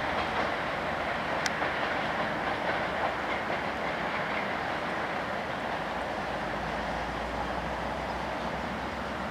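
A GO Transit commuter train's bilevel passenger coaches rolling past at low speed, with steady wheel-on-rail noise and a few clacks over rail joints. A low rumble swells in the last few seconds.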